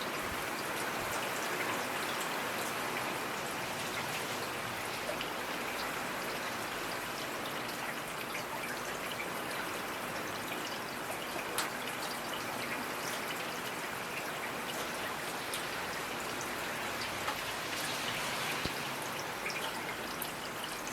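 Steady rainfall, with scattered individual drops ticking on surfaces over an even hiss.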